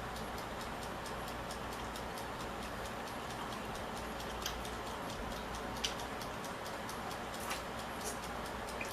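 Steady background hiss with a rapid, even ticking about five times a second, and a few louder, sharper clicks of eating and handling food.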